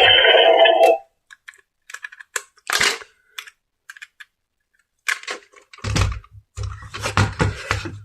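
Background music cuts off about a second in, leaving scattered light plastic clicks and a brief rustle. Near the end come faster runs of clicks with low knocks, like plastic toy parts and packaging being handled.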